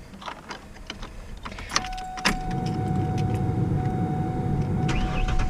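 2010 Ford Ranger cold start: a few clicks of the key and controls, then the engine catches about two seconds in and settles into a steady run with a thin steady whine over it.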